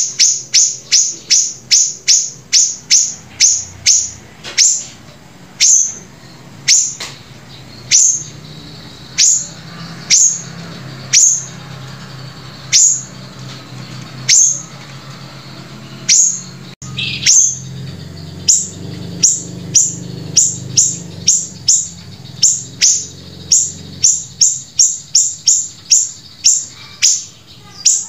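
A songbird calling a long series of short, sharp, high notes, each a quick downward sweep. The notes come fast at first, slow down through the middle, then speed up again near the end, over a faint low hum.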